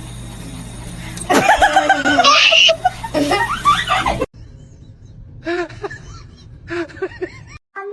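People laughing over background music, cutting off suddenly about four seconds in. A few short calls follow in a quieter stretch.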